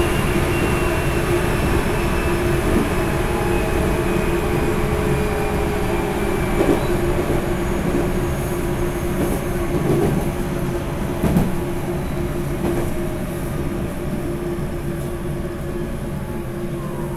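Running sound of a JR 373 series electric multiple unit from inside the car's vestibule: a steady rumble of the train under way, with a whine that falls slowly in pitch and a few short knocks.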